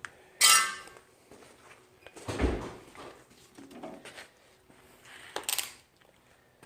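Workshop handling noises: a short metal scrape about half a second in, a dull thump a couple of seconds later, and another scrape near the end, as parts of a lawn tractor are moved around a freshly fitted engine.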